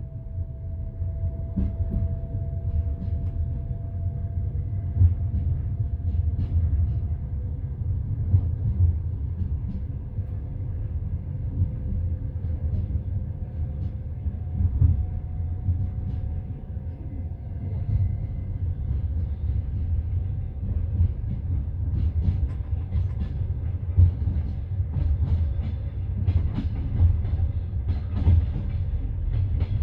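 Passenger train coach running along the track, heard from inside at the window: a steady low rumble with scattered knocks of the wheels over the rails.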